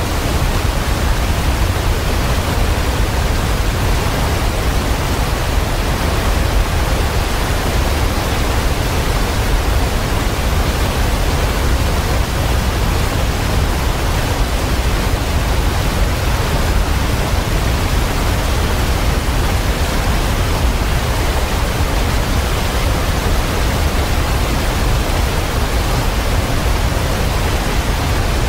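Waterfall: a steady, dense rush of falling water with a deep rumble underneath.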